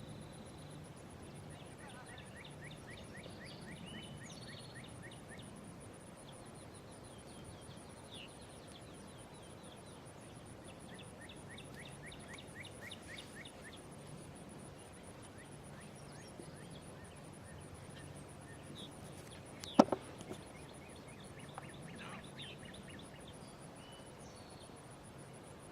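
Faint outdoor ambience: a steady high pulsing buzz, several runs of quick trilling calls, and one sharp click about twenty seconds in.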